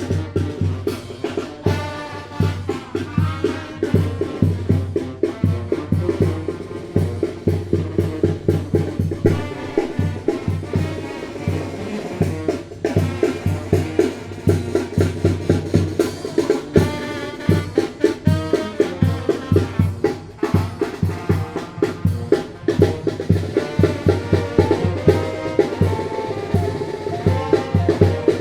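Tamborazo band playing: brass melody over a steady beat of tambora bass drum and snare.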